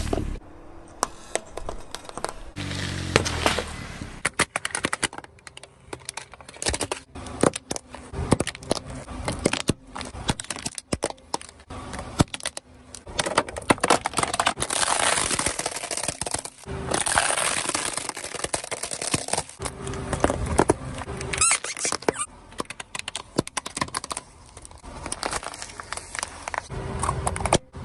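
Dense crackling and crinkling, a quick run of sharp cracks and clicks with some thicker stretches of crackle.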